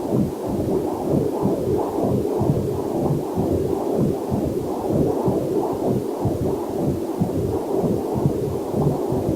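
Fetal Doppler monitor sounds: a rapid whooshing heartbeat, about two to three pulses a second, with a faint waterfall hiss mixed in underneath.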